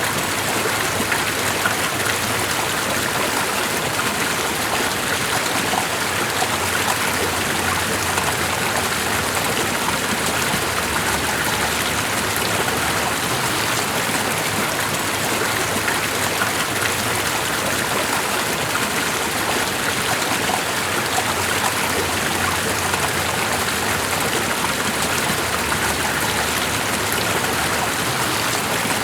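Steady running water: an even, unbroken rushing sound with fine patter.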